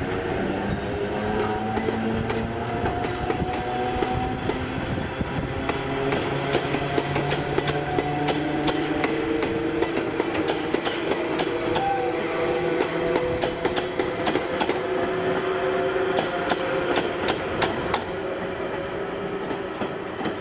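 Oigawa Railway locomotive-hauled passenger train running on the line. The steady rumble carries slowly shifting tones, and there are many quick clicks and knocks of wheels over the rails, thickest through the middle stretch; it eases a little near the end.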